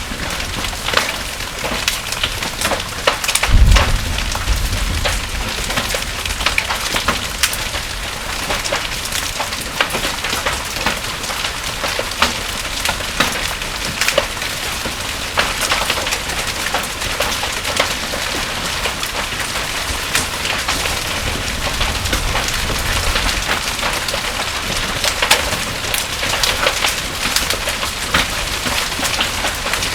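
Heavy rain mixed with hail pelting down, a dense steady hiss crowded with sharp clicking impacts on hard surfaces. A short low rumble breaks in about three and a half seconds in, and a weaker one a little past the middle.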